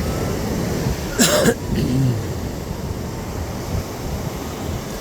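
Steady surf and wind noise on the microphone, with a short cough a little over a second in.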